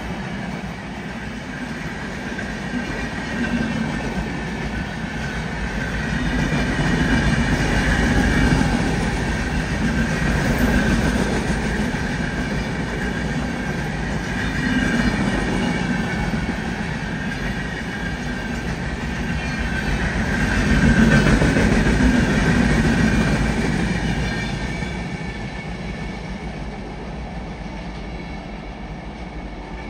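Long express passenger train running past on the track, its coach wheels rumbling and clattering over the rails in slow surges. The sound fades over the last few seconds as the train draws away.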